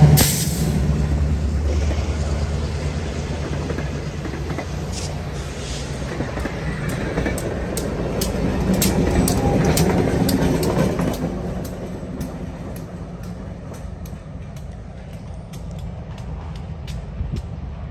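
Diesel-hauled passenger train passing close by: a steady rumble of the coaches with sharp clicks of the wheels over the rail joints. The rumble swells as the diesel locomotive at the rear goes by, about nine to ten seconds in, then drops to a quieter rumble.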